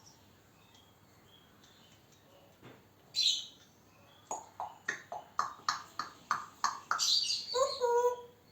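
African grey parrot vocalising: a single sharp hissy squawk, then a fast run of about a dozen short clicking chirps at roughly three a second, ending in a brief pitched whistle.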